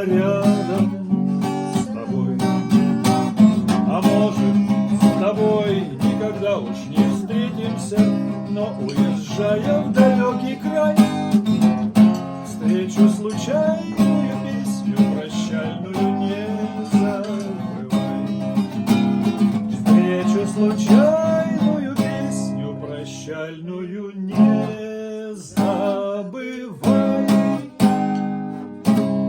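Acoustic guitar strummed in an instrumental passage closing a Russian tourist song, breaking into a few separate final strums near the end.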